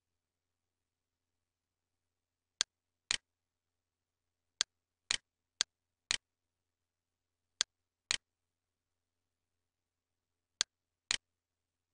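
Computer mouse clicking: five pairs of sharp clicks, the two in each pair about half a second apart.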